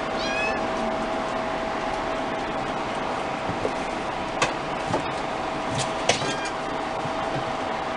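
Two brief, high-pitched kitten mews, one about half a second in and one around six seconds in, over a steady background hiss with a constant hum and a few light clicks.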